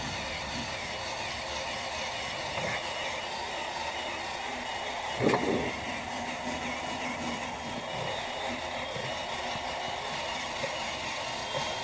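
Workpro 12-volt cordless 3-inch polisher running steadily with a 2000-grit sanding pad on a plastic headlight lens, wet-sanding out the haze and pitting. A brief knock sounds about five seconds in.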